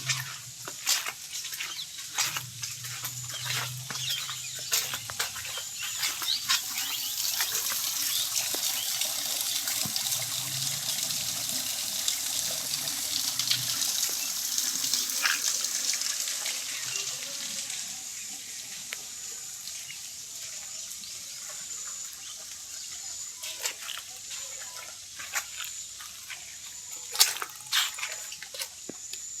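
Water running and splashing, with many scattered drips and small knocks.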